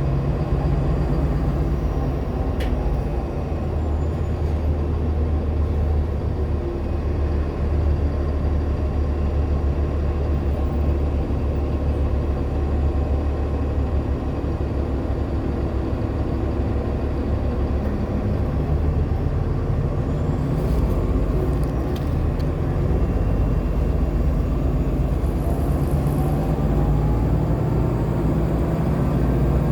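2014 Nova Bus LFSA hybrid transit bus under way, heard from on board: a steady low rumble from its Cummins ISL9 diesel and Allison hybrid drivetrain, with a few clicks and rattles. A faint whine rises near the end.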